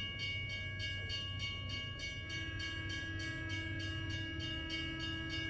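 Steam-train sound effect: a multi-note train whistle held over a steady chugging of about four to five chuffs a second, with the whistle's chord shifting about two seconds in.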